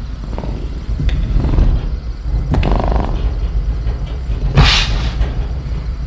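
Sound-effect ambience of a caged velociraptor: a heavy cage creaking and knocking over a steady low rumble, with a loud, short hissing burst about four and a half seconds in.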